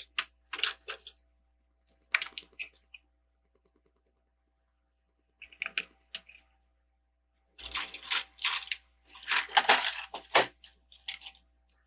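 Plastic Lego pieces clicking and rattling as they are handled and fitted together, in scattered bursts that grow busiest from about eight seconds in.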